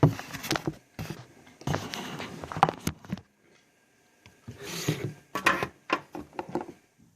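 Irregular rustling and scraping with sharp knocks, in two bursts with a short quiet gap about three seconds in.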